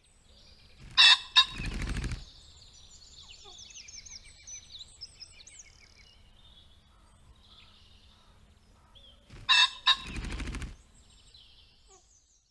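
Domestic fowl giving two short harsh calls followed by about a second of wing flapping, repeated twice, with faint high chirps in between.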